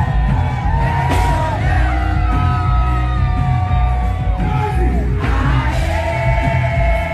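Live Afrobeats performance played loud: a heavy bass beat under long held sung notes, with the crowd yelling and singing along.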